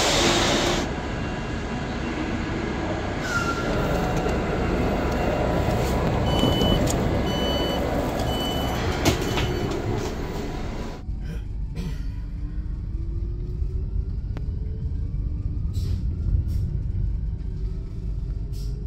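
Regional train noise with three short high beeps about a second apart. It then changes to a low running rumble with a faint whine that slowly rises in pitch as the train gathers speed.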